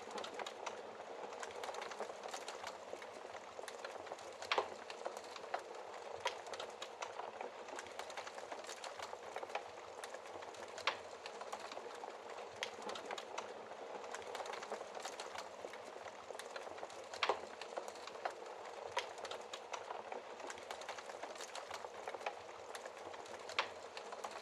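Wood fire burning in a fireplace: a steady hiss with frequent crackles and occasional sharper pops at irregular intervals.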